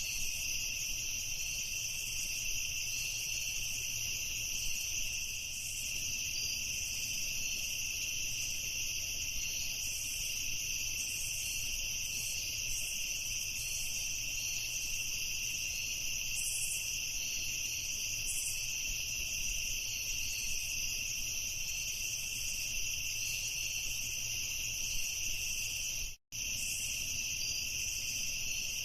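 A chorus of crickets chirring steadily in two high, even bands of pitch, with faint pulsing chirps above. The sound drops out for a split second near the end.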